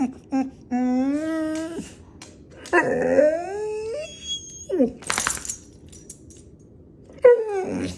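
Pit bull whining and crying in a string of high cries, some held steady, some rising and falling, with a short noisy burst in the middle. He cries like this to be patted.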